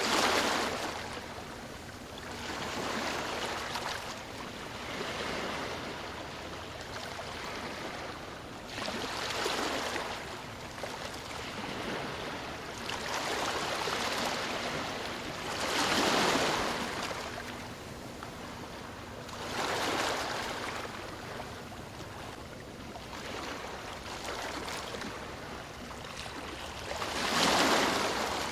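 Ocean waves breaking and washing up on a shore, each one swelling into a rush of surf and then fading, every three to six seconds. The loudest waves come right at the start, about sixteen seconds in, and near the end.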